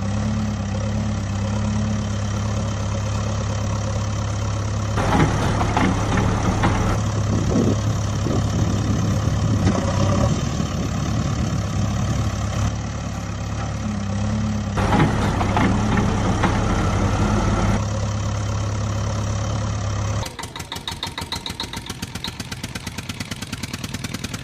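Steady engine-like drone with a low hum. About 20 seconds in it gives way abruptly to a rapid, even pulsing.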